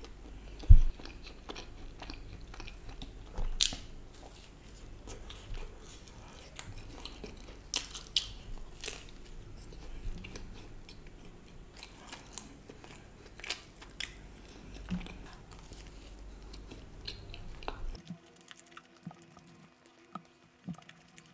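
Close-miked mouth chewing and biting on soft stuffed garlic bread, with wet smacks and small clicks, and one sharp knock about a second in. Near the end the low background hum drops away.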